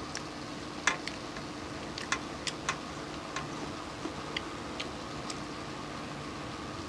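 Light, irregular clicks and taps of someone eating a meal, about a dozen over a few seconds and bunched in the first half, over a steady background hum.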